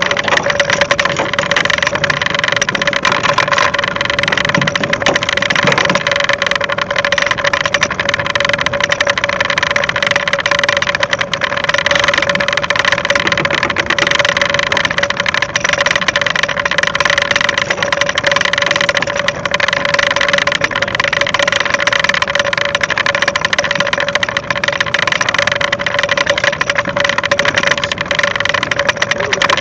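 A fishing boat's engine running steadily, with a constant droning tone over a loud, even noise.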